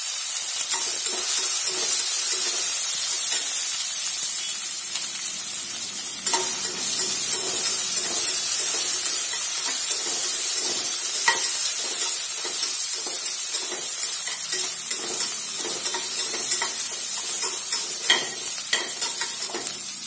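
Sliced onions, green chillies and whole spices frying in ghee and oil in a steel pressure cooker, sizzling steadily while a steel spatula stirs them, with the spatula scraping and tapping against the pot now and then.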